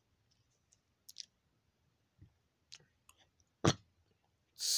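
Near silence broken by a few faint, scattered clicks, the sharpest about three and a half seconds in, then a quick intake of breath just before speech resumes.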